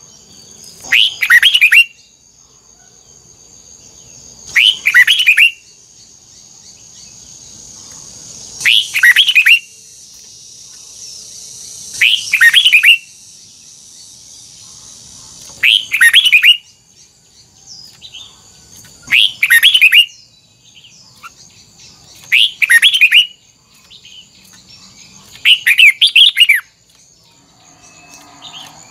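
Red-whiskered bulbul singing short, quick warbled phrases, one about every three and a half seconds.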